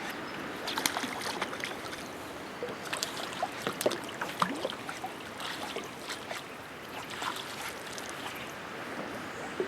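Water splashing and sloshing in short irregular bursts, busiest in the first half, over steady running water.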